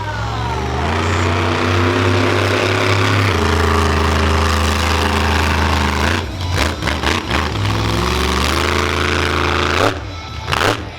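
Monster truck engine revving hard: it climbs in pitch, holds at high revs, falls away and climbs again, with a sharp bang near the end.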